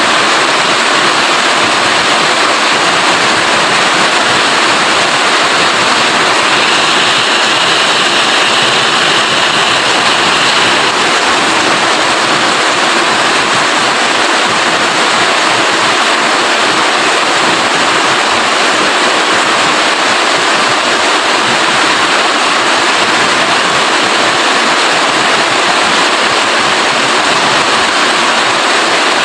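Heavy rain falling steadily: a dense, even hiss of water with no breaks or separate drops standing out.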